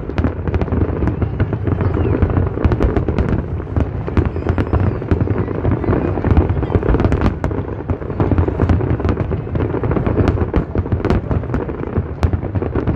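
Aerial fireworks bursting in quick succession: a continuous deep rumble of shell explosions, crossed by many sharp crackles and pops.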